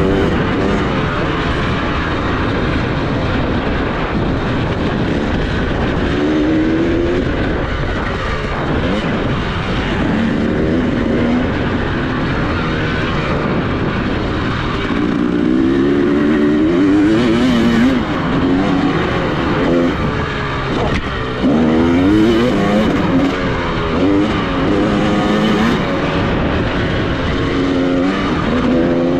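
Off-road motorcycle engine being ridden hard, its pitch climbing and dropping again and again with the throttle and gear changes, over steady wind and rushing noise.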